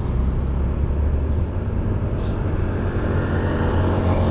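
Street traffic at an intersection: the engines of nearby vehicles running with a steady low hum, and one engine note rising near the end.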